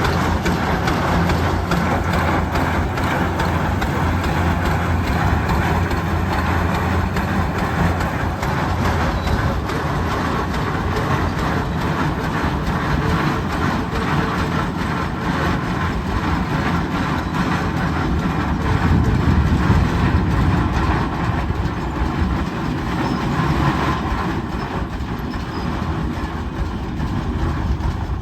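Antique tractor engine running steadily, with a rapid even pulse of firing strokes and strong low rumble; it grows a little louder about two-thirds of the way through.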